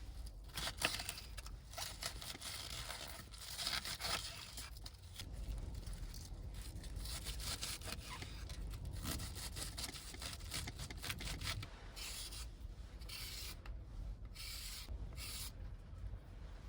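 Irregular rustling, rubbing and scraping, as of things being handled or shifted, over a steady low rumble.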